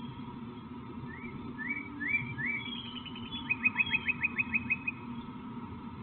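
A songbird singing: four short rising whistled notes, then a fast run of about ten short notes on one pitch, over a steady low background hum.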